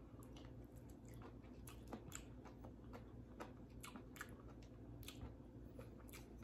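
Faint, irregular little clicks of a mouthful of seaweed salad being chewed.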